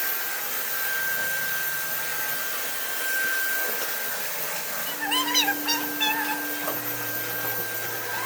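A steady, even rushing hiss, with a few short chirping animal calls about five seconds in.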